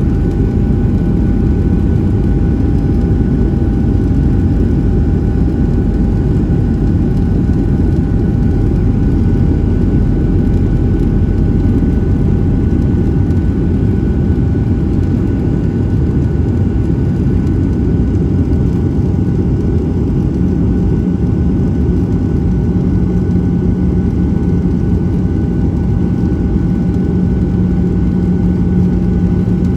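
Steady cabin noise of a Boeing 737-700 in flight: the deep rumble of its CFM56 engines and airflow with a faint steady whine above it. A low hum joins about two-thirds of the way through and holds.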